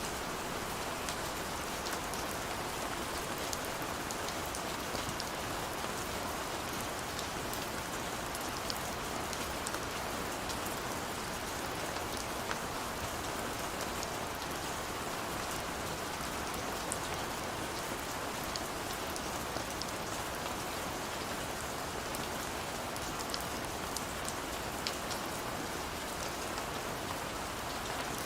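Steady, gentle rain falling, a constant hiss with scattered ticks of individual drops striking a surface.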